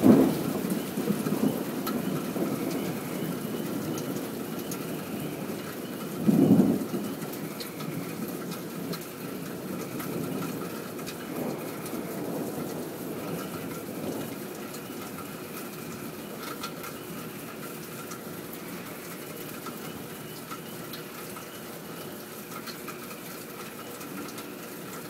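Steady rain falling during a severe thunderstorm, with two loud claps of thunder, one at the very start and another about six and a half seconds in. The rain then carries on a little more softly.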